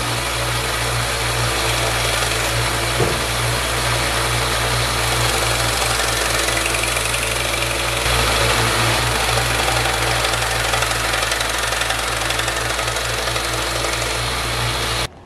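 Electric grinder running steadily with a strong hum under a hiss, grinding the edge onto a spring-steel paring knife blade; it cuts off suddenly near the end.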